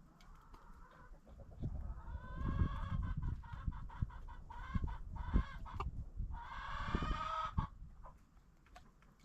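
Chickens clucking and calling, with one longer drawn-out call a little over a second long near the end, over low thuds and rumble.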